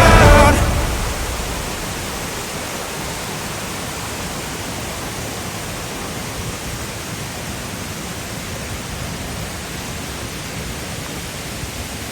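Steady, even rush of a waterfall, a constant hiss spread across all pitches. A pop song fades out during the first second.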